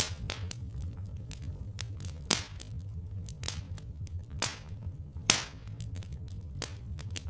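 Wood fire crackling with irregular sharp pops, two louder ones about two and five seconds in, over a steady low rumble.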